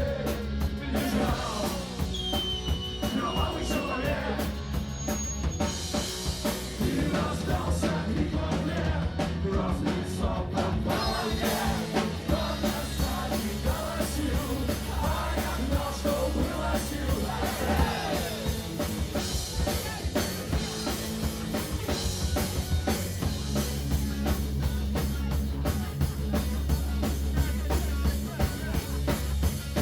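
Live punk rock music: a full band with drum kit, bass and electric guitars playing continuously, with some singing or shouting mixed in.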